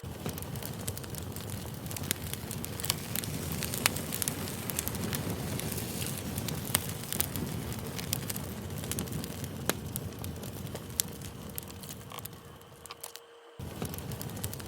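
Campfire burning: a steady rush of flame with frequent sharp crackles and pops from the burning wood. It fades briefly near the end and then starts again abruptly.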